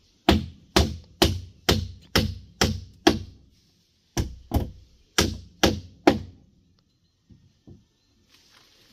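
Hammer blows on wooden formwork boxing for a concrete column, evenly paced at about two a second: seven strikes, a short pause, then five more.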